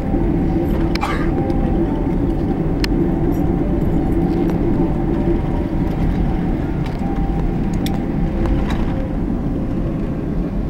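Airliner cabin noise on the ground after landing: a steady low rumble of the jet engines and air system with a faint steady whine, and a few small clicks.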